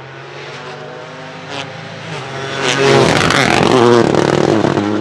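Toyota GR Yaris Rally2's turbocharged three-cylinder engine, revving hard with rising and falling pitch and sharp exhaust crackles, loudest from about three seconds in. A single sharp crack comes about a second and a half in, and a steadier engine tone comes before and after the hard revving.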